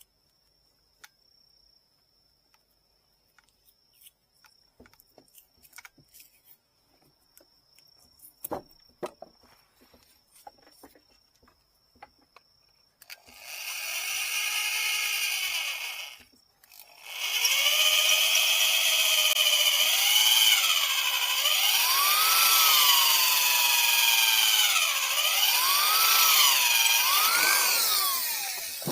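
A few faint clicks and taps, then a small electric drill runs for about three seconds, stops, and runs again for about twelve seconds. Its whine rises and falls as the bit bites and frees up in the work.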